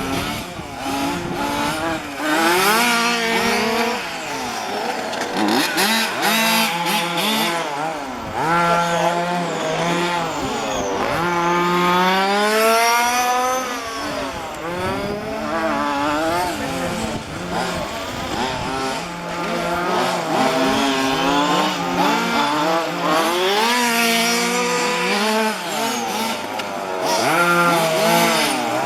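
Several 1:5-scale petrol RC cars' small two-stroke engines running, the pitch rising and falling every few seconds as they rev up and back off, with more than one engine overlapping at times.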